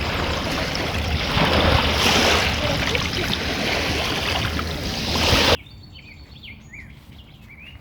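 Loud rushing water that swells and ebbs, like waves or a fast stream, cuts off suddenly about five and a half seconds in. Small birds then chirp quietly with short high calls.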